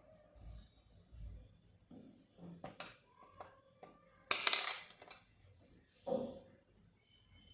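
Watercolour painting tools clinking and rattling on the desk. A few light clicks come first, then a louder clatter lasting under a second about four seconds in, and a shorter one about six seconds in.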